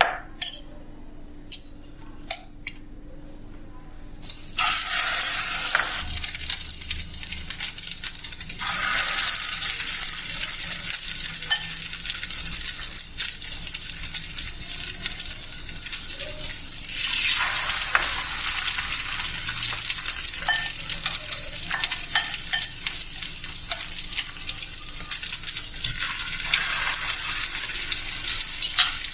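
Egg-coated potato and chicken cutlets sizzling in shallow oil on a hot tawa griddle: a steady, dense hiss that starts about four seconds in and swells a little now and then. Before the hiss come a few light clicks of a spoon against a bowl.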